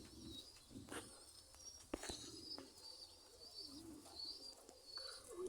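Pigeons cooing faintly, with high, wavering chirps of other birds and a few light clicks.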